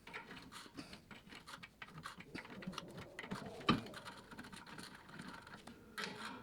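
Ratchet wrench clicking as a rusted bolt, freed by torch heat, is backed out, with a louder metal knock about halfway through.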